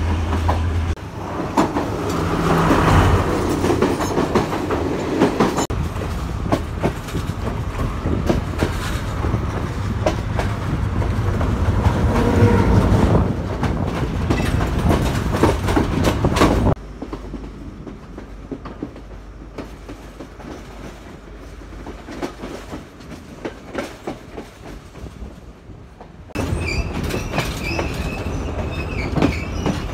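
Passenger trains passing close by: a loud rumble with rapid clickety-clack of wheels over the rail joints, then a quieter stretch after a cut. Near the end a diesel-hauled train runs past with a thin, high squeal of wheels on the rails.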